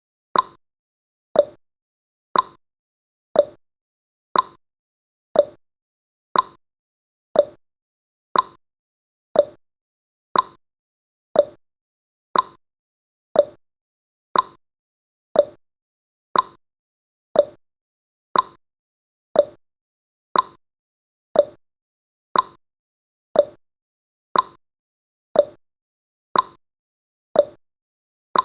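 Countdown timer sound effect: a short click once every second, evenly spaced, each dying away quickly.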